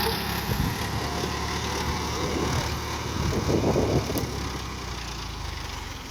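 Tractor engine running, louder around three to four seconds in and easing off toward the end.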